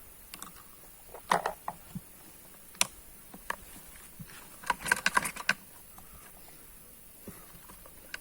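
Scattered clicks and light knocks from handling a Stihl MS 460 chainsaw as it is readied for starting, with a quick run of clicks about five seconds in; the engine is not yet running.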